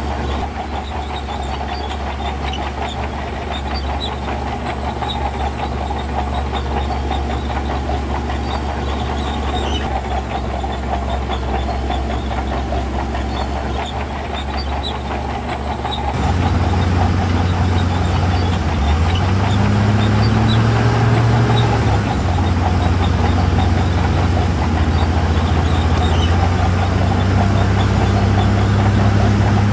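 Heavy earthmoving machinery's diesel engine running steadily under work. About halfway through, the sound jumps louder, and a few seconds later the engine note rises and falls back.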